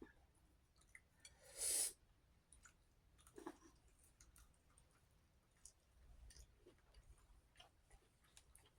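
Faint chewing and small mouth clicks of someone eating spaghetti, with one short breathy rush about a second and a half in.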